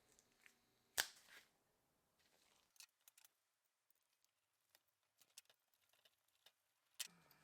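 Near silence broken by scattered small clicks and taps, with a sharper click about a second in and another near the end.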